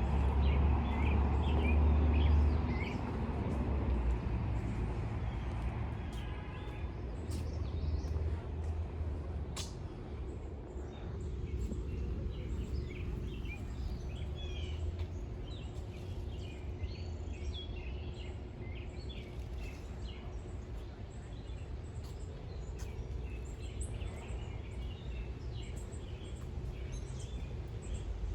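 Small birds chirping again and again, short high calls scattered throughout, over a low steady rumble that is strongest in the first few seconds and eases off about halfway.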